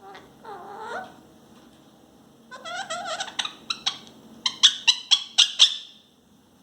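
Pet parrot calling: a short warbling call, then a run of wavering chatter that ends in a quick series of about six sharp, loud squawks.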